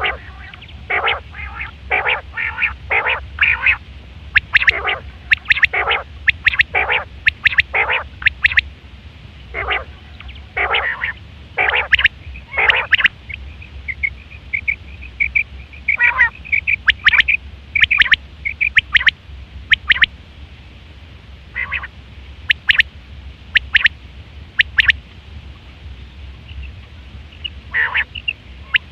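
Quail calling: a quick series of short, sharp calls, about two a second, then a run of higher, thinner notes and a few scattered calls near the end, over a steady low hum.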